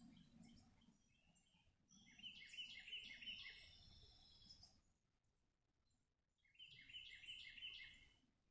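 Faint songbird singing two quick phrases of rapid, repeated high notes, one about two seconds in and one near the end, over a low outdoor rumble.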